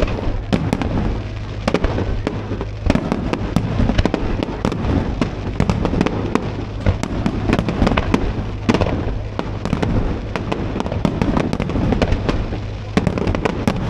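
Fireworks display going off: a dense run of bangs and crackling reports in quick succession.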